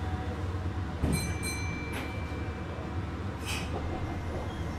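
Cabin sound of a Meitetsu 6800-series electric train: a steady low hum, a clunk about a second in followed by a brief high tone, and two short hisses of air.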